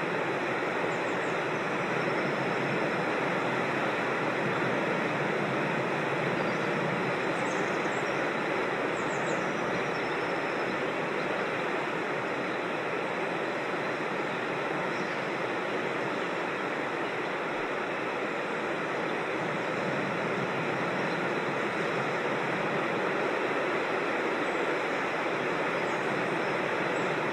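Creek water rushing over rocks in a steady, even rush, with a few faint, short, high bird chirps above it.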